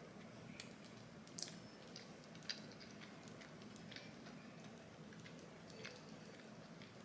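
A person chewing food close to the microphone, faint, with a handful of small sharp mouth clicks spread unevenly through it, over a faint steady low hum.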